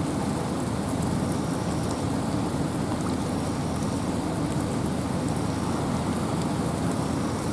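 Steady rain falling in a forest, mixed with wind, with scattered drips. The sound is an even, unbroken noise that is strongest at the low end.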